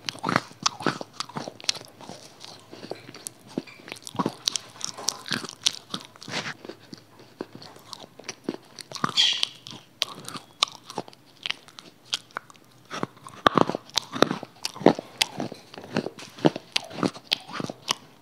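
Close-miked crunching and chewing: a person biting into crisp food with the microphone held at the mouth, many sharp crunches in quick, irregular succession.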